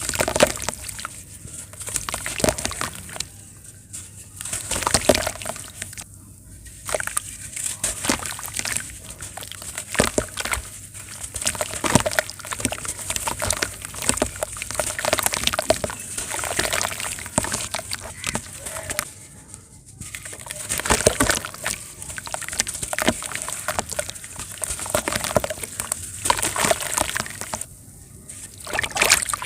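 Round shapes of packed sand crumbling in water: sloshing with a dense run of small clicks and fizzing, swelling and easing every few seconds.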